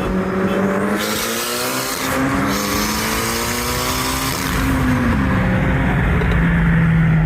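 Mitsubishi Lancer Evolution VII's turbocharged 4G63 four-cylinder engine pulling hard under acceleration, its pitch climbing steadily for about four seconds. The pitch then drops about five seconds in and holds steady.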